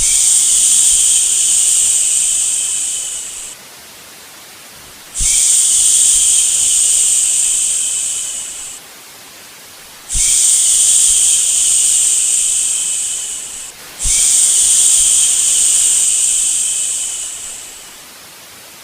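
A person shushing a baby to sleep: four long "shhh" sounds, each held for about four seconds and fading out at the end, with short pauses between. A faint steady hiss carries on through the pauses.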